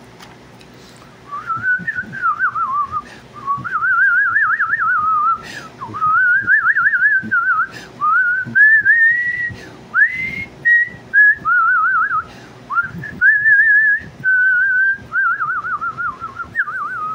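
A man whistling a melody in short phrases, with fast trilling wobbles in the pitch and a few sliding notes.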